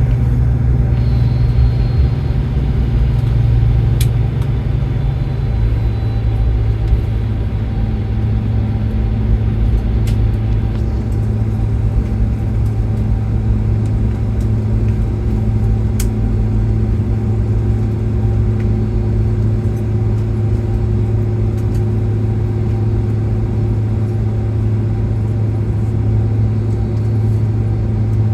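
Cabin noise of a Boeing 767-400 rolling on the ground just after landing: a steady, loud low rumble of the engines and wheels with a steady hum. The lowest part of the rumble eases about five seconds in, and there are a few light clicks.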